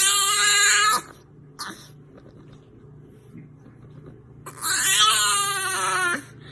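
A dog letting out two long, high-pitched whining cries, one at the start and a longer one about four and a half seconds in.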